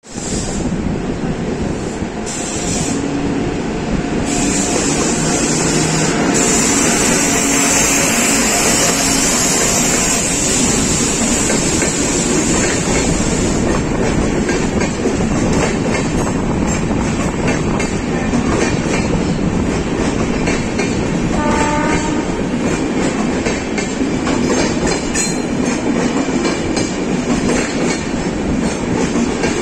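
Passenger train coaches running past at close range: a steady loud rumble of steel wheels on rail, with rapid clattering over the rail joints through the second half. A brief pitched tone sounds about two-thirds of the way through.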